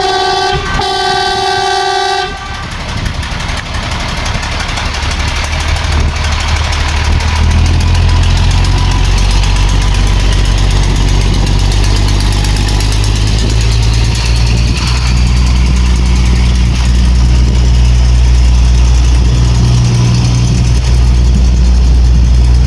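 Horn of a railway track motor car sounding a short blast and then a longer one, followed by the vehicle's diesel engine running steadily as heard from the cab, growing louder over the first several seconds.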